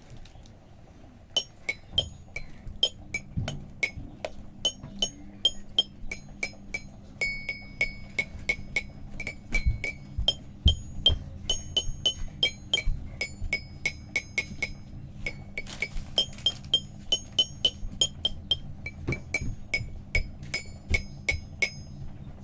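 Toy xylophone struck with a mallet, a run of single bright ringing notes at about two to three a second, starting about a second in and stopping shortly before the end.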